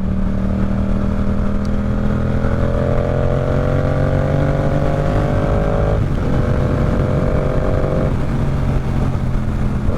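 Yamaha R7's parallel-twin engine pulling under acceleration, its note rising slowly for about six seconds. It breaks briefly and then holds a steadier note, over a low rumble of road and wind.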